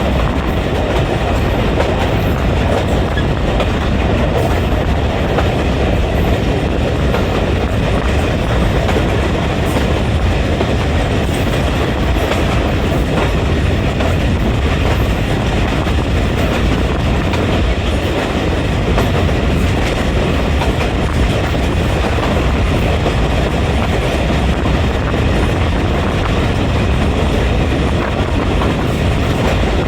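Passenger train running along the track: a steady, loud rumble of wheels on rails and coach noise, unbroken throughout.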